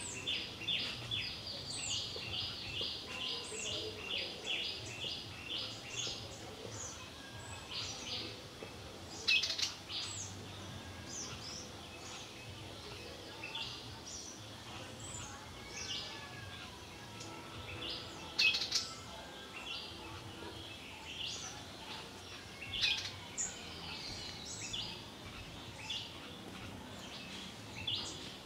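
Wild birds chirping and calling, with a quick run of repeated high notes in the first few seconds and scattered sharper calls after, two of them louder, over faint background hum.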